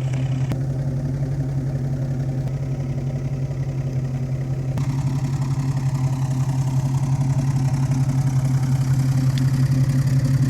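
Dodge Charger's engine idling steadily, a low even rumble that grows slightly louder in the second half.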